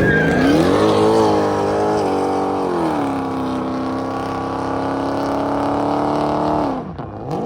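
Car engine revved hard and held at high revs for several seconds during a burnout, with tyre noise under it. Near the end the revs drop sharply, then climb again.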